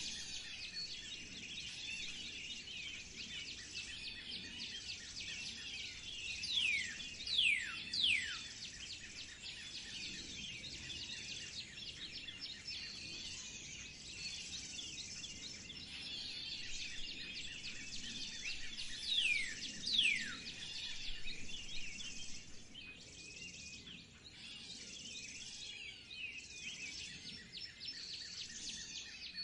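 Songbirds chirping and singing in a busy, continuous chorus. Loud whistles that slide steeply downward stand out: three in quick succession about seven seconds in and two more about nineteen seconds in.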